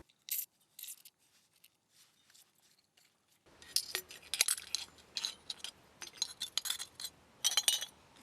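Glass energy-drink bottles strung along a rope as squid traps, clinking and knocking against each other in sharp, irregular chinks. A few at first, then busier from about three and a half seconds in.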